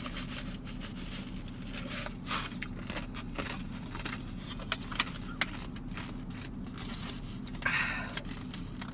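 Steady low hum of a car engine idling, heard from inside the cabin, with scattered sharp clicks and crackles.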